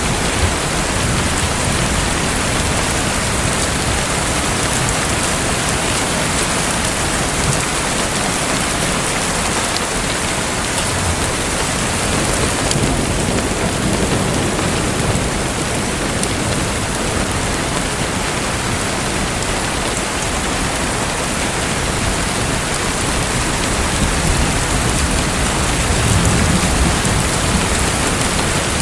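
Steady splashing, rushing water with a low rumble underneath, unbroken and even throughout.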